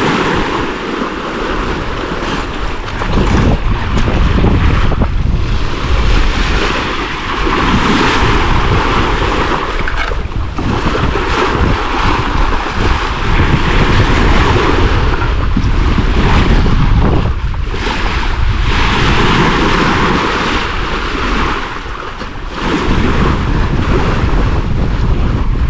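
Wind buffeting the microphone over the rush of ocean waves around a sailing yacht at sea, the noise swelling and easing in gusts.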